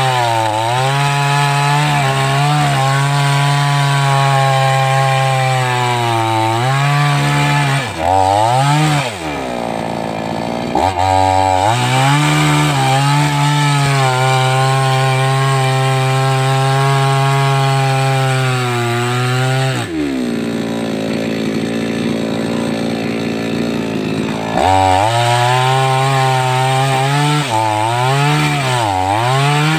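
A 588X two-stroke chainsaw cutting through sengon wood, its engine pitch sagging and recovering again and again as the chain bogs in the cut. About two-thirds of the way through, the engine speed drops for several seconds, then revs back up into the cut.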